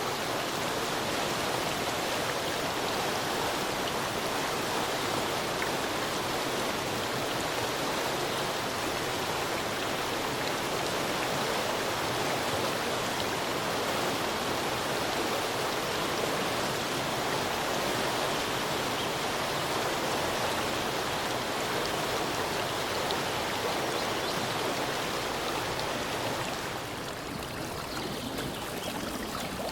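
Steady rushing of a flowing stream, an even wash of water noise with no distinct splashes. Near the end it turns a little softer and duller.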